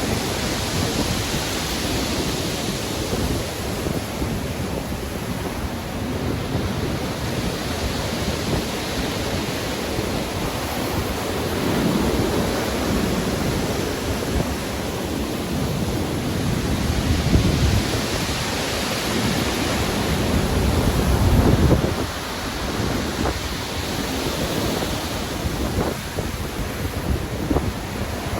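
Heavy storm surf, waves breaking and washing in a continuous roar that swells and eases every few seconds. A deep rumbling surge builds to the loudest point about twenty seconds in, then drops off sharply.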